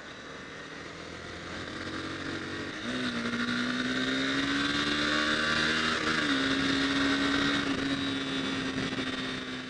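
Honda CBR250R's single-cylinder engine running under acceleration, getting louder over the first few seconds. Its pitch climbs slowly and drops sharply twice, about three and six seconds in.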